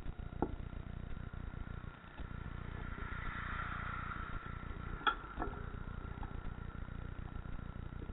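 Bicycle ride noise: wind rumbling on the microphone over road and bike noise, with a few sharp clicks and rattles, one just under half a second in and a pair about five seconds in. A hiss swells and fades about three to four and a half seconds in.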